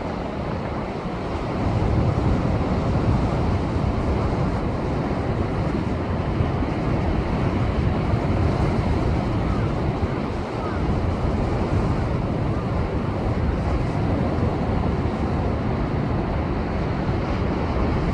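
Heavy post-typhoon surf crashing and surging against a rocky shore in a continuous rumble, growing louder about two seconds in, with wind buffeting the microphone.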